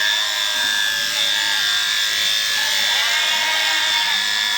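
Electric sheep-shearing handpiece running steadily with a high, even hum, over background voices.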